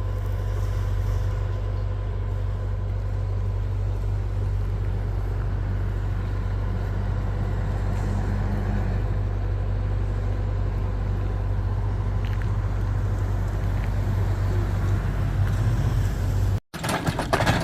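Semi truck's diesel engine running steadily, a deep even drone. Near the end it cuts off abruptly at an edit.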